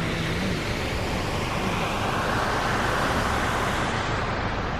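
Car driving along a flooded street, its tyres hissing steadily through standing rainwater. The hiss swells in the middle and eases near the end.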